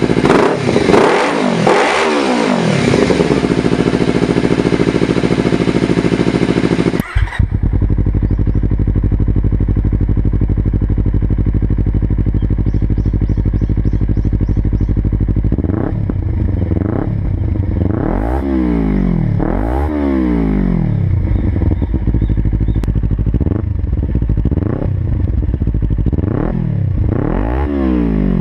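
A Kawasaki Ninja 300 parallel-twin engine with an aftermarket exhaust, revved in quick blips. After a cut it idles steadily, then is blipped again about nine times in quick succession.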